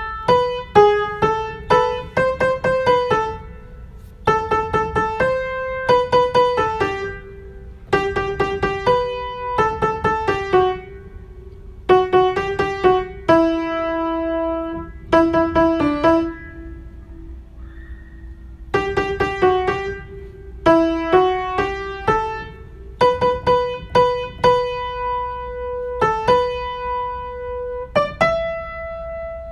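Piano playing a simple melody in short phrases of struck notes, each phrase a couple of seconds long with brief pauses between them, over a faint low hum.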